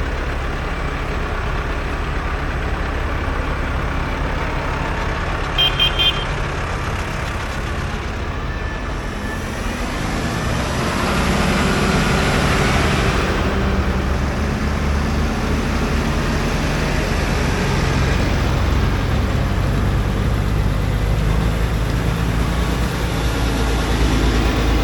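Tractor engines running as a line of tractors drives past, one passing closer and louder about ten seconds in. Three short high beeps sound about six seconds in.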